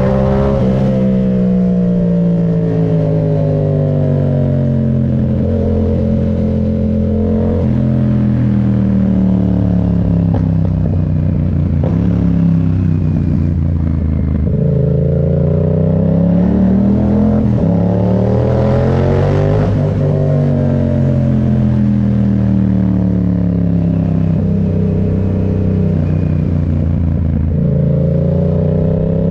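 Yamaha MT-07's parallel-twin engine on the move, revving up and easing off several times. The pitch climbs at the start, again from about 15 to 19 seconds in, and near the end, and falls away slowly in between as the throttle closes.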